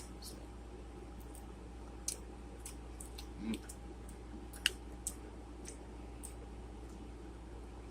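Light, scattered clicks and taps of a plastic salad container being handled, with one sharper click a little past halfway.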